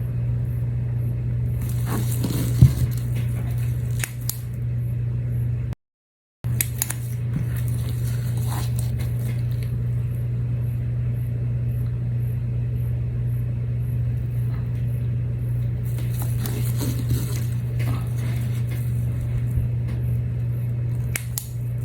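A steady low hum throughout, with small scrapes and clicks of hands handling a small resin piece and tools, a few of them around two to four seconds in and again near sixteen seconds.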